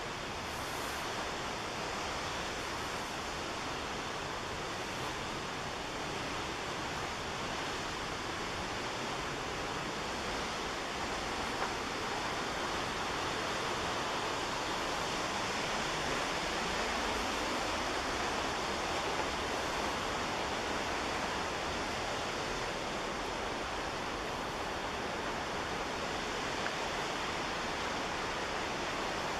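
Steady rush of the McKenzie River's fast white water, a constant roar with no breaks that swells slightly through the middle.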